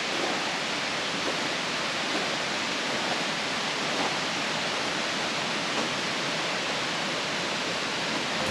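Steady rushing noise of water, with a few faint ticks scattered through it.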